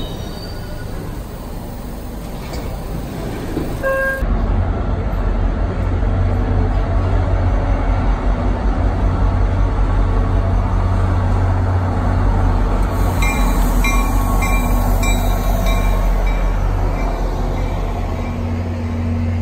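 An MBTA Orange Line subway train at an underground platform, broken off by an abrupt cut after about four seconds. Then an MBTA diesel commuter rail train approaches and its coaches roll past, a steady deep rumble that grows a little louder after the cut.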